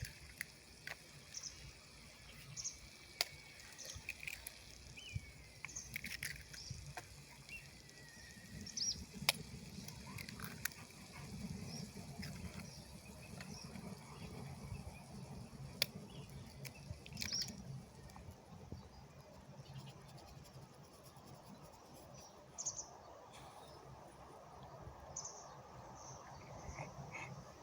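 Outdoor ambience: birds chirping in short, high calls repeated every second or two, with a low rumble and scattered faint clicks underneath.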